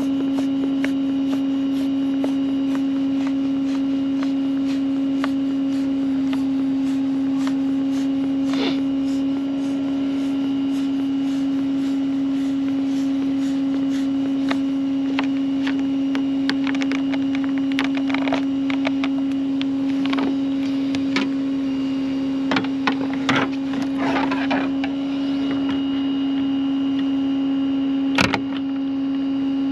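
Steady mechanical hum of a running vehicle, with scattered clicks and rattles of a lockout tool being worked at a locked vehicle door, and one sharp knock near the end.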